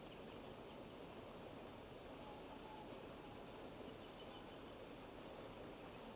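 Faint steady rain with scattered drips, and a few soft, brief bird calls in the middle.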